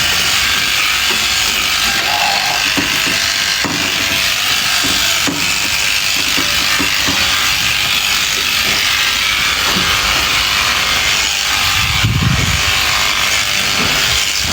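Electric sheep shears running steadily as they cut through fleece. A brief low sound comes near the end.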